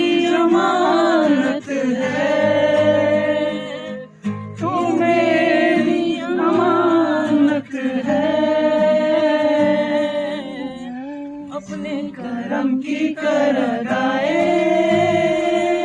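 Several people singing a Hindi film song together in long, drawn-out phrases, with brief breaths between lines.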